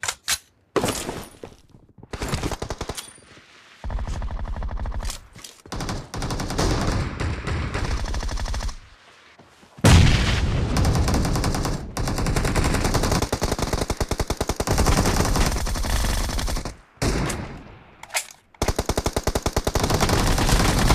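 Video game automatic gunfire: long bursts of rapid fire with short pauses and a few single shots between them.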